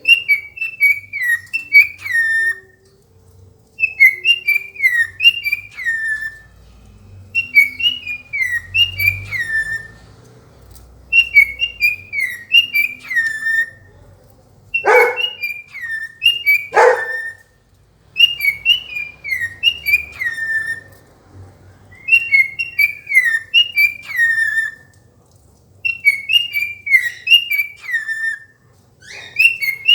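Cockatiel whistling the same short, warbling phrase of gliding notes over and over, about every four seconds. Two sharp, loud sounds break in about halfway through.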